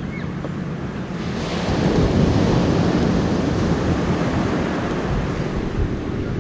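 Rushing noise of sea water and wind on the microphone, swelling about a second and a half in and then staying strong.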